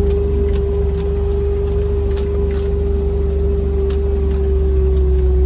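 A small farm vehicle running steadily at low speed, a low rumble with a steady whine that drifts slightly lower in pitch, and a few light clicks over the ground.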